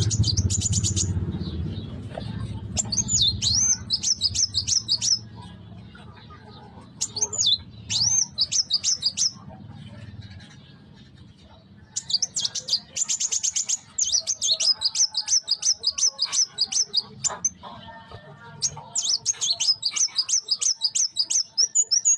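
A young kuwul singing: bursts of rapid, high chirps and quick trills, repeated in phrases with short pauses between them. A low hum runs underneath for the first half.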